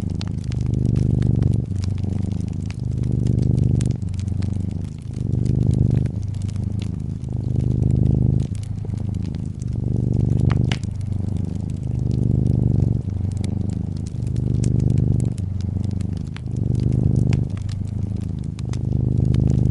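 Brown tabby cat purring in a steady low rumble that swells and eases with each breath, about every two seconds. The snaps and crackle of a wood fire run over it.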